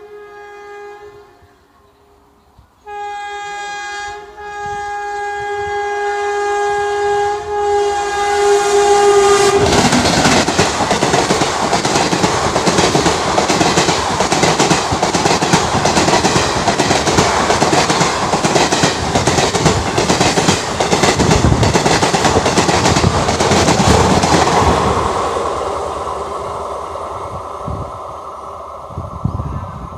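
Indian Railways express train sounding its horn, a blast ending about a second in and then a long blast of about seven seconds, then passing at speed with loud clickety-clack of wheels over rail joints that fades away near the end.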